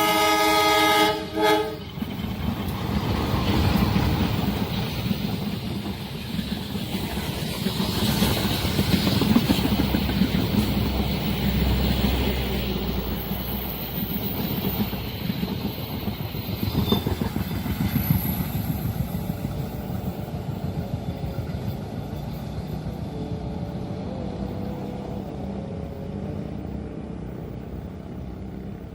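A train horn sounds briefly at the start, then a train passes with a steady rumble and clatter of wheels on the rails that slowly fades away.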